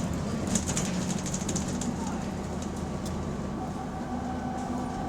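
Bus engine running under way with a steady low drone, heard from inside the saloon, with rattling and clicking over the first couple of seconds and a faint whine coming in about two seconds in. The bus has an exhaust leak.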